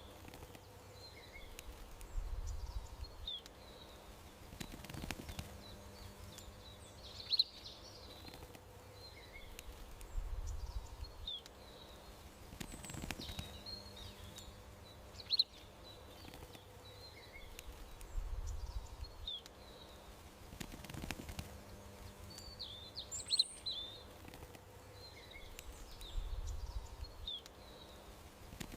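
Small songbirds chirping in a garden: short, high chirps every second or two over a faint steady background hiss and hum. The same pattern of chirps repeats about every eight seconds.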